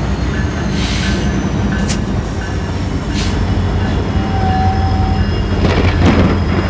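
Canadian Pacific freight train's GE diesel locomotives running with a steady low rumble. Short bursts of hiss come about one, two, three and six seconds in, and a brief steady squeal sounds near the middle.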